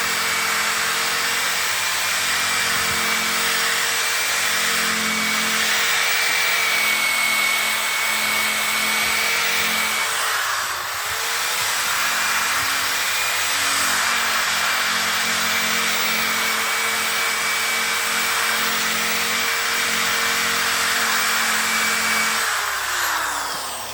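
Handheld electric power tool running steadily while sanding and polishing a plastic headlight lens to take out scratches and fading. Its whine dips and picks up again about halfway through, then winds down with a falling pitch near the end.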